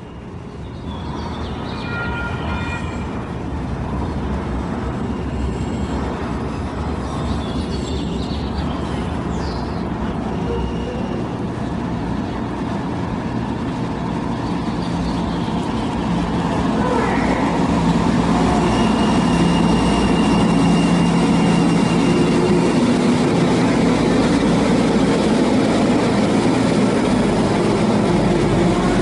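Sacramento Regional Transit light rail train running on its track, a steady rumble that grows louder over the first twenty seconds and then holds, with a thin high whine at times.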